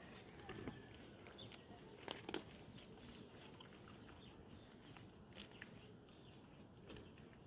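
Donkey chewing and crunching tree leaves: faint scattered crunches, the loudest a little over two seconds in.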